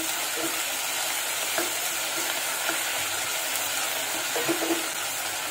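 Sliced onions and tomato pieces sizzling in hot oil in a pot, stirred with a wooden spoon, with a few light knocks of the spoon against the pan.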